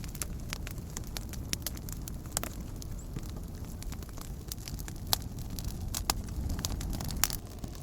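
Wood campfire crackling, with irregular sharp pops over a low steady rumble of the flames.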